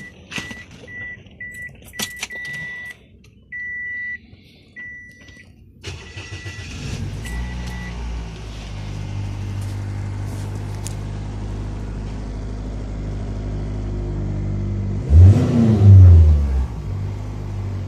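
Car warning chime beeping in short repeated tones with a few clicks, then a 2005 Toyota Echo's 1.5-litre four-cylinder engine starts about six seconds in and settles to a steady idle. Near the end the throttle is blipped twice, the engine rising and falling in speed; it is being checked for a misfire that keeps it from revving properly.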